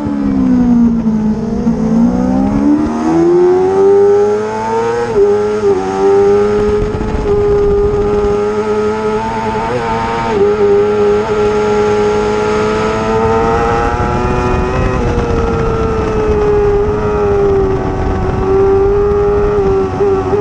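Racing motorcycle engine at high revs. Its pitch drops steeply about a second in as the bike slows, climbs back over the next few seconds as it accelerates, then holds high with small dips at the shifts, over steady wind rush.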